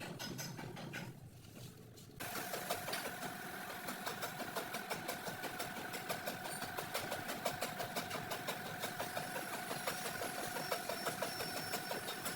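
A motor-driven machine starts suddenly about two seconds in and runs steadily, with a fast regular pulsing over a steady hum.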